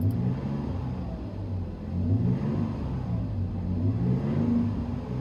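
2007 Toyota Tacoma's 4.0-litre V6 heard from inside the cab through a Flowmaster Super 40 split dual exhaust, its pitch rising and falling repeatedly as the truck accelerates. The interior tone is a moderate drone.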